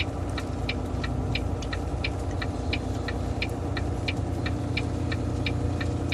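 Semi-truck diesel engine running steadily, heard from inside the cab, with the engine (Jake) brake holding the truck on a steep downhill grade. Over it the hazard flasher clicks evenly, about three times a second.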